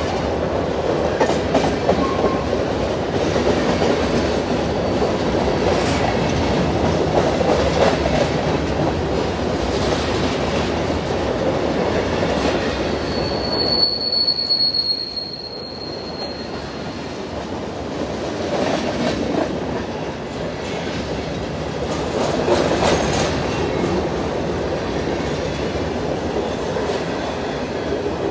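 Covered hopper cars of a freight train rolling past on the rails: a steady rumble of steel wheels with occasional clacks. A brief high-pitched wheel squeal comes about halfway through.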